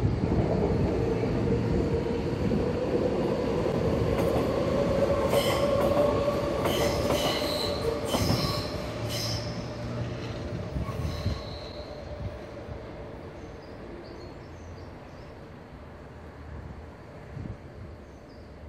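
Passing train running away along a curved track: a steady whine under the rumble of the wheels, with high wheel squeal coming and going on the curve from about five seconds in, then fading out. Birds chirp faintly near the end.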